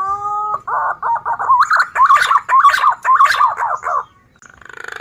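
Green pigeon (punai) song used as a lure call: a long rising whistle, then a run of wavering, warbling whistled notes for about three seconds, and a hoarser, rougher call near the end.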